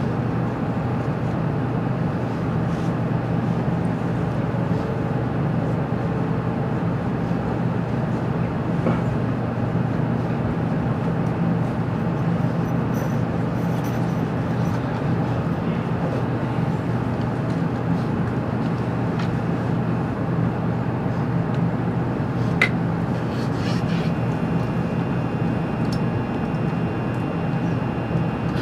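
Steady interior hum of an N700-series Shinkansen motor car standing at a station platform, with one sharp click about three-quarters of the way through. Near the end a faint, high, steady whine joins in as the train begins to pull away.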